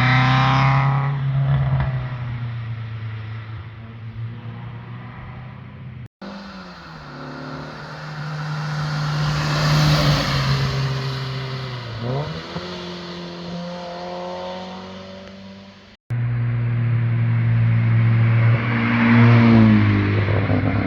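Cars' engines and exhausts driving past on a twisty mountain road, in three short clips with abrupt cuts between them: revving up, swelling as each car nears and dropping in pitch as it passes, with a car accelerating hard near the end.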